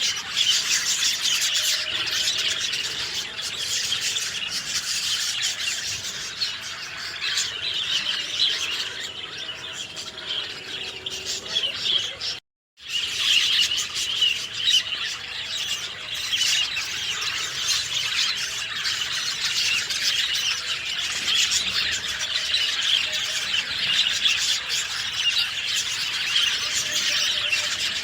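Chorus of many small songbirds chirping and twittering densely and without pause. About halfway through the sound cuts to silence for a split second, then the chorus resumes.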